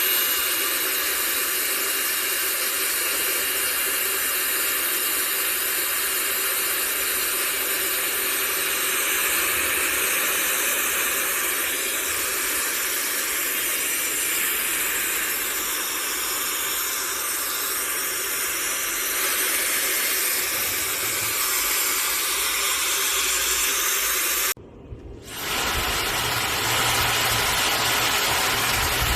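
Laifen SE high-speed hair dryer running: a steady rush of air with a thin high whine. Near the end it cuts out for about half a second and comes back with a deeper rumble underneath.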